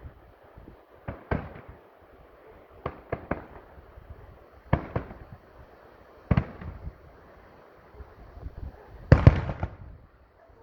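Fireworks display: aerial shells going off in separate sharp bangs every second or two, with a quick volley of louder bangs near the end.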